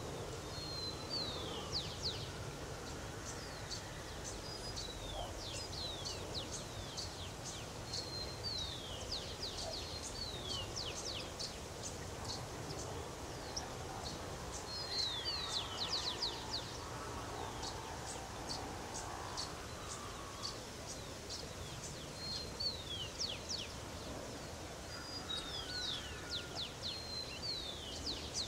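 Bird song: every few seconds a burst of very high, thin notes, quick downward-sweeping whistles and short flat tones, over a steady low background noise.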